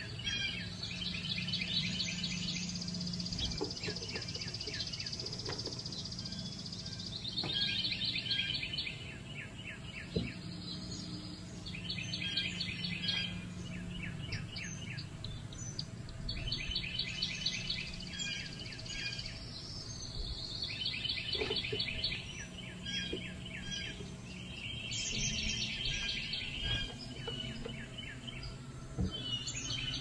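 Songbirds singing short, rapid trills of quick, evenly spaced notes, each about a second long, repeated every few seconds over a steady low hum.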